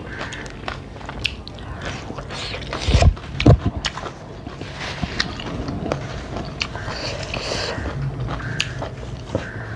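Close-miked mukbang eating sounds: chewing, wet mouth clicks and smacks while eating rice and curry by hand. There are two louder low thumps about three seconds in.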